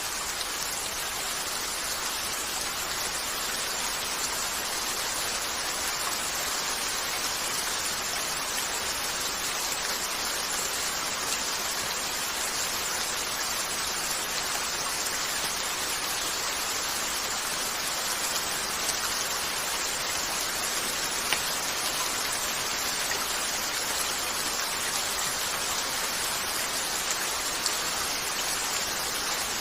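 Steady rain falling on a window, an even hiss, with a few faint crackles from a fireplace late on.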